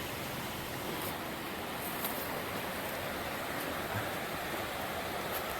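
Steady rush of the Quinapoxet River running high after heavy rain, with a few faint high ticks.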